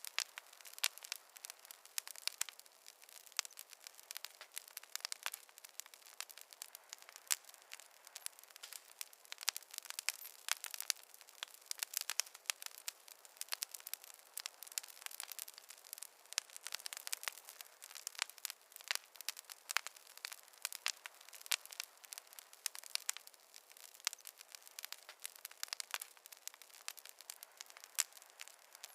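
Wood fire crackling in a fireplace: dense, irregular sharp pops and snaps over a soft hiss, with no low rumble.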